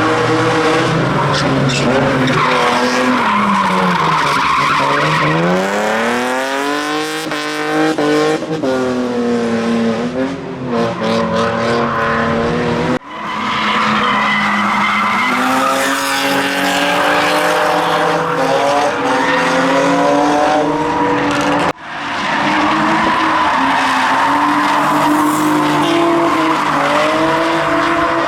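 Drift car engine held at high revs while the tyres squeal and skid through slides, its pitch sagging and climbing again several times. The sound cuts off abruptly twice, about 13 and 22 seconds in, and picks straight back up.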